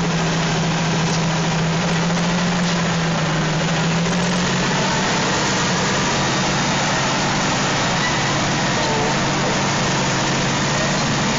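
Diesel engines of two Caterpillar 657 wheel tractor-scrapers running hard while the scrapers load, heard close up: a loud, steady engine noise with a low hum that shifts pitch slightly about four seconds in.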